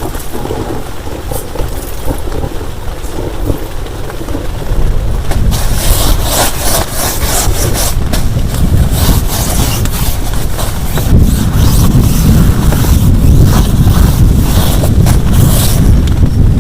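Heavy rain pouring, with crackling spatter from about five seconds in, and a low rumble of thunder building through the second half.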